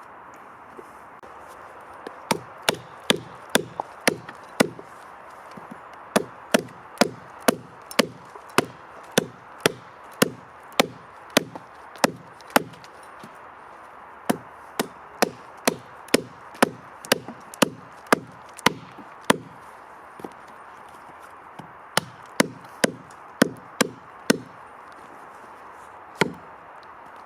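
Repeated sharp strikes of a tool on wood, chopping or knocking at about two a second, in runs of several blows broken by short pauses. A steady hiss runs underneath.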